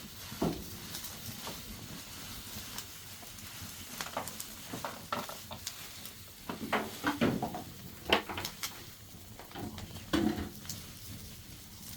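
Cooking sounds: a utensil stirring and knocking in a pan, with irregular short clicks over a faint sizzle.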